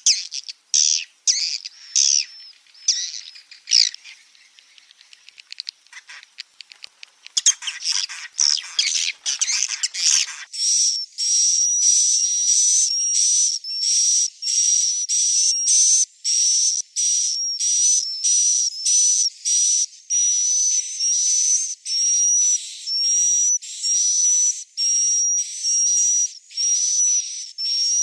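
Swiftlet roosting-lure recording ('suara inap') of chick and adult swiftlet calls. Irregular high twittering chirps give way about ten seconds in to a steady run of repeated high whistled calls, about two a second.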